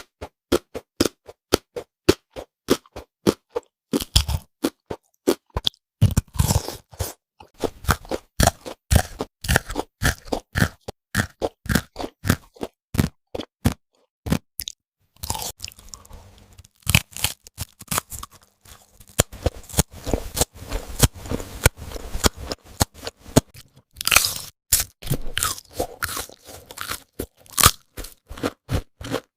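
Crispy fried chicken being bitten and chewed close to the microphone: rapid sharp crunches, several a second, with a pause of about a second midway before the crunching resumes.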